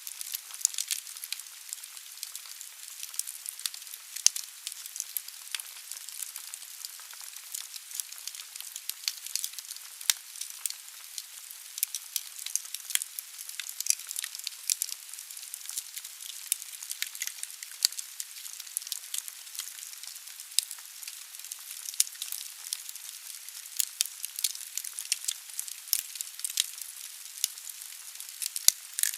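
Wood logs burning in a fireplace: a steady hiss of flame with constant irregular sharp crackles and pops.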